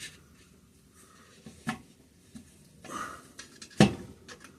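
Light metal clicks and scrapes of a pry tool working the tappets away from the camshaft in a Kohler opposed-twin engine, with one sharper click near four seconds in.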